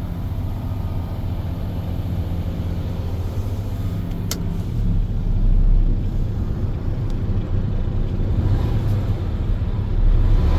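MAN TGS 35.440 truck's six-cylinder diesel engine running with a steady low rumble, swelling briefly twice. A single sharp click comes about four seconds in.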